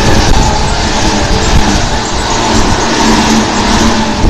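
Electric passenger train passing at speed without stopping: a loud, continuous rush of wheels on rail, with a steady whine running through it, that lasts until the last car clears near the end.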